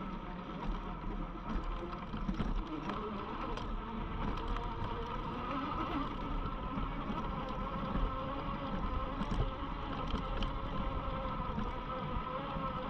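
Riding a UBCO electric motorbike: wind rushing over the microphone with steady motor and tyre noise, and a faint whine that wavers slightly with speed.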